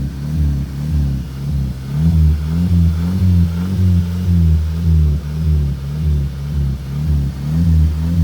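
Volkswagen car engine revved in quick, rhythmic blips about twice a second as the accelerator pedal is pumped.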